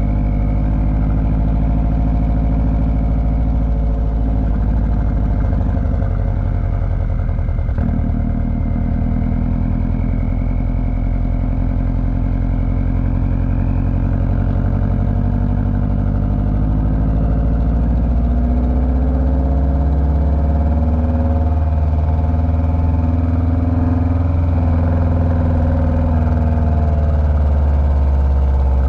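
Car engine running at a steady cruise with road noise: a continuous low drone whose pitch drifts slowly up and down, getting a little louder and deeper about two-thirds of the way through.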